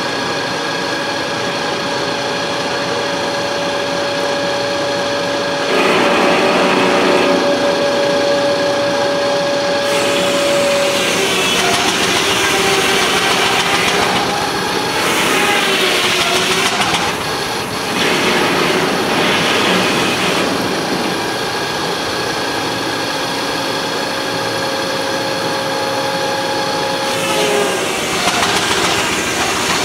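Sawmill running, with a steady hum and a clear ringing tone from the spinning saw. About ten seconds in the tone sags and a louder, rougher cutting noise takes over for some ten seconds, with a short break. The tone then returns and sags again near the end.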